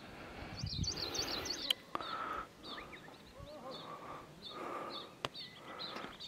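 Small birds chirping again and again in short, high calls over a steady outdoor hiss, with one sharp click just under two seconds in.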